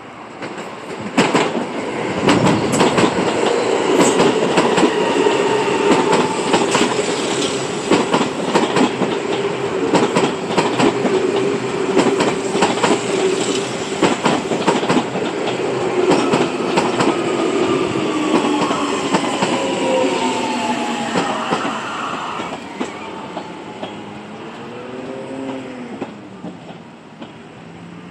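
Seibu 6000-series stainless commuter train running close past, wheels clicking over rail joints with a steady motor hum. About two-thirds through, its motor whine falls in pitch as it slows, then the sound dies down.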